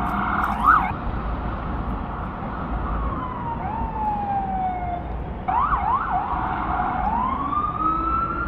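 Emergency vehicle siren sweeping up and down in pitch: a slow falling wail, then quick yelping warbles about halfway through, then a slow rising wail, over a steady low rumble of traffic.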